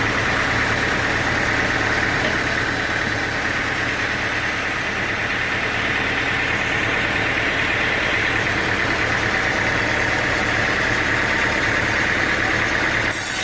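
Sawmill machinery running steadily, an engine drone with a higher steady whine on top; the sound changes abruptly just before the end.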